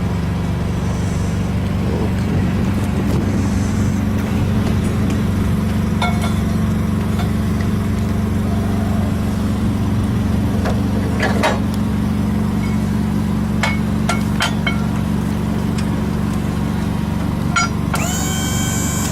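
A large engine idling steadily, with scattered light clinks and knocks over it and a short high chirp near the end.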